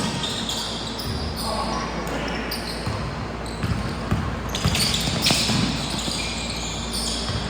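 Basketballs bouncing on a gym floor, with scattered knocks among a background of voices.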